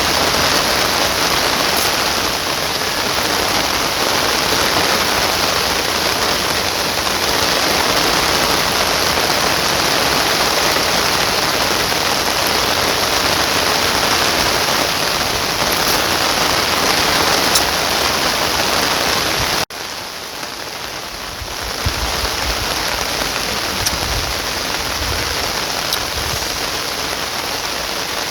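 Heavy rain pouring steadily as an even, dense hiss. About twenty seconds in it cuts off abruptly and comes back a little quieter.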